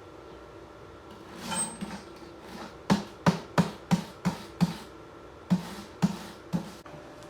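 A run of sharp, short knocks: six in quick succession, about three a second, then three more spaced further apart, preceded by a brief scraping noise.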